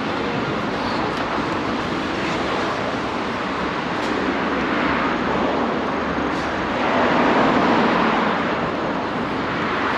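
City street traffic: a steady noise of passing vehicles, swelling louder about seven seconds in as one passes close.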